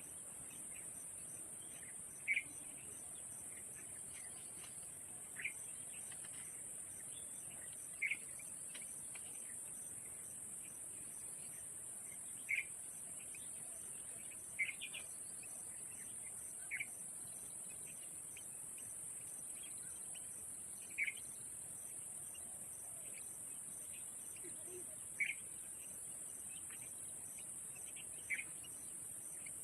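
Insects drone steadily at a high pitch, with a faint regular pulse beneath the drone. Short bird chirps cut in every two to four seconds.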